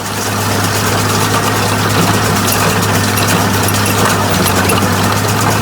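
Tractor engine running steadily at constant speed, a strong even low hum.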